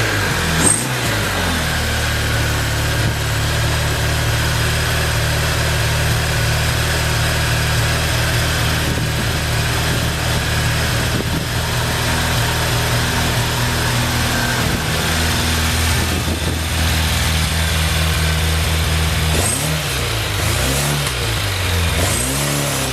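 Suzuki GSF750 inline-four motorcycle engine running at a steady speed for most of the time. Near the end the throttle is blipped several times, the revs rising and falling about every second and a half. The seller describes the engine as having no abnormal noise.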